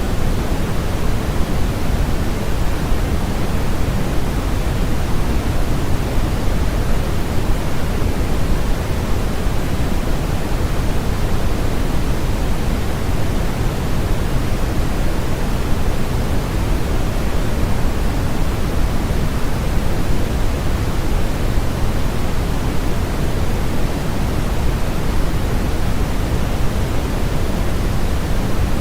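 Steady, unchanging artificial noise of a sleep 'white noise' track, a smooth static hiss weighted toward the low end, so that it sounds deeper and softer than pure hiss, closer to pink noise.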